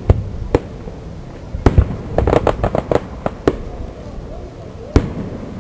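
Fireworks show: aerial shells bursting in a string of sharp bangs, with a rapid run of crackling reports in the middle and a last loud bang near the end.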